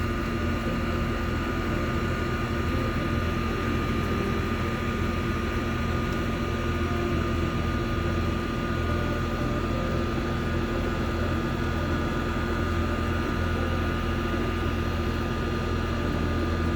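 Steady mechanical drone with constant hum tones under an even hiss, heard while a soldering torch heats copper refrigerant line joints on an air-conditioner compressor replacement.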